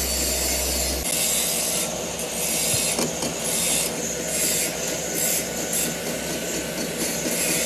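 Factory metalworking noise: a steady, noisy machining or grinding sound, with a high hiss that cuts in about a second in and switches on and off several times.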